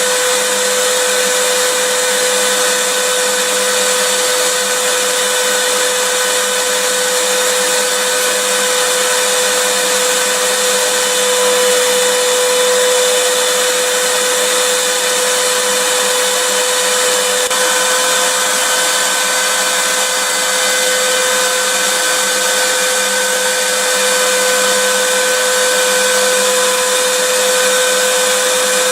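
Vacuum cleaner running continuously at an even level: a loud rushing hiss of air with a steady motor whine.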